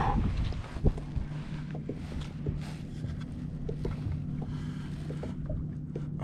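Scattered knocks and light handling noises on a kayak, with one sharper knock about a second in, over a steady low hum and faint wind on the microphone.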